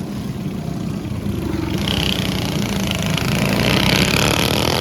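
Mini bikes racing past on the track, their small engines running hard. The engine noise builds from about two seconds in and is loudest near the end.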